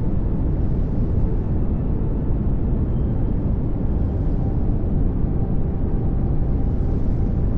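Steady pink noise: an even hiss-like rush, strongest in the low range and fading toward the highs, with no change in level.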